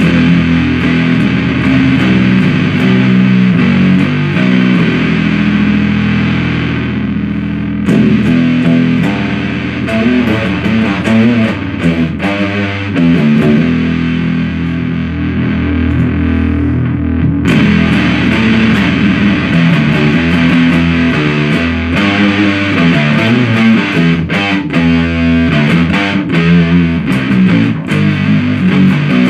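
Heavy, low fuzz-distorted riffing on a bass guitar through the Supercoolpedals 77 Fuzz Blender, a Big Muff-style op-amp fuzz pedal, into an Orange amplifier. The tone is thick and low, with energy massed in the low end.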